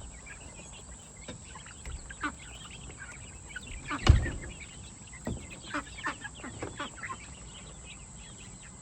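A flock of chickens calling with many short, quick calls, and a single loud thump about four seconds in.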